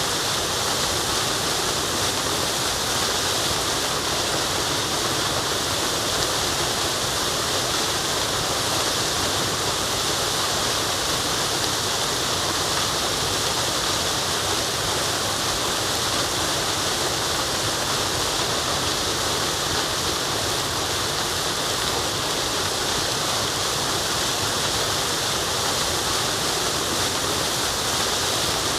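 Forest waterfall: a steady, unbroken rush of falling water with a bright hiss and no changes in level.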